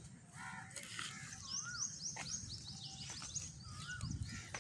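Small birds chirping, a rapid series of short high notes from about a second and a half in, with two lower rising-and-falling whistled notes and a few faint clicks.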